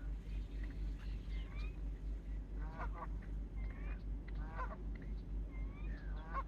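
Canada geese honking, three loud honks about a second and a half apart in the second half, with shorter sliding calls between. Under them runs a low rumble that pulses about four times a second.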